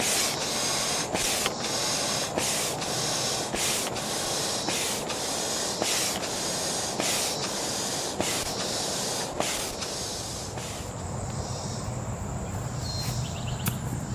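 Manual air pump inflating the front seat chamber of an Intex Excursion 4 inflatable raft: a rhythmic hiss of air with each stroke, about one and a half strokes a second. The pumping stops about three-quarters of the way through.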